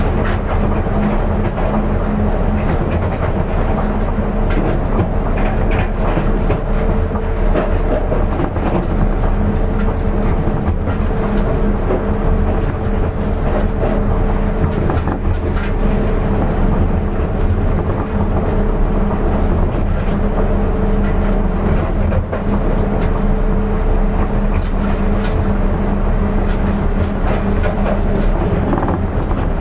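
Running noise inside an Osaka Metro 200 series New Tram car, a rubber-tyred automated guideway train, travelling between stations: a steady rumble with a constant hum.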